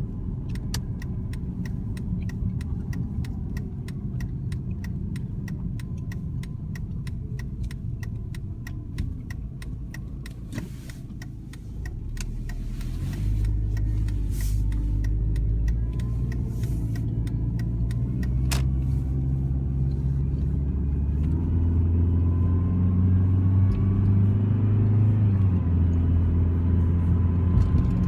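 A 2003 Dodge Neon SX's 2.0-litre four-cylinder engine running, with a fast regular ticking in the first half. About halfway through, the engine gets louder and its pitch steps up several times, and a faint whine climbs slowly in pitch above it: the engine whine the owner is trying to track down.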